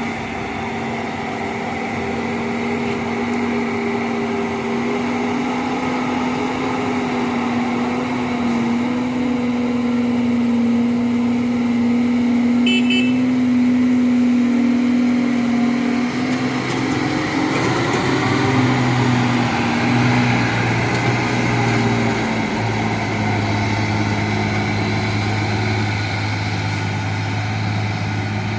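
Dump truck engine running steadily, its note shifting about halfway through and settling on a lower pitch as the truck changes speed.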